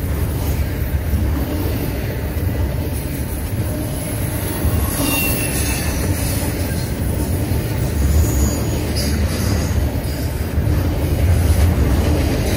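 Double-stack intermodal freight train passing close by: a steady rumble of steel wheels and well cars on the rails. Brief high wheel squeals come about five seconds in and again around eight to nine seconds.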